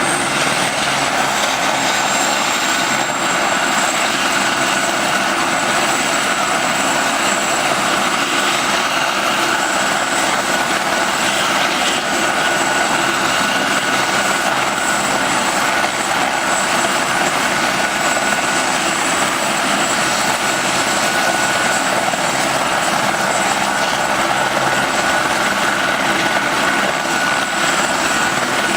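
Police helicopter running steadily: constant turbine engine and rotor noise with a high, even whine.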